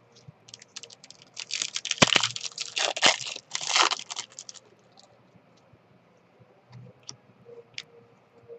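Trading card pack wrapper crinkling and tearing for about four seconds, then a few light clicks from the cards being handled.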